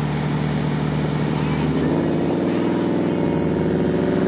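Audi S5 running through an aftermarket exhaust, idling, then revved about two seconds in and held at a higher pitch.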